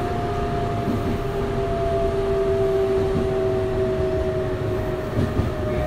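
Tobu 9050 series electric train with Toyo GTO-VVVF traction equipment running between stations, heard from on board. A steady rumble carries two sustained whine tones, the higher one slowly dropping in pitch.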